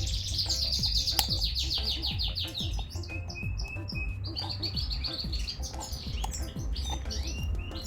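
Small songbirds chirping, with a rapid trill of repeated high notes at the start and another about four seconds in, and short chirps between. Under them runs a low, steady background music track.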